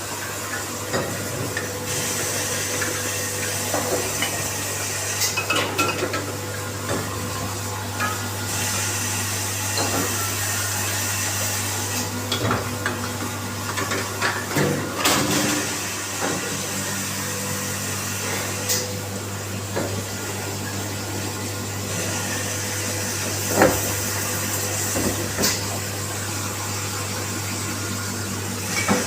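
Bottle washing machine running: a steady motor hum and hiss under irregular clinking and clattering of bottles knocking against each other and the machine, with one sharper knock about three quarters of the way through.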